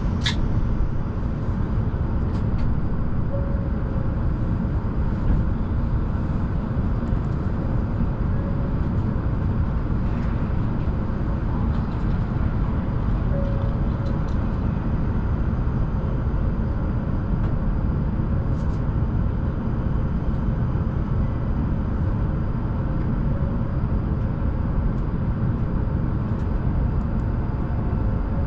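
Shinkansen bullet train running, a steady low rumble of wheels and motion heard from inside the passenger car.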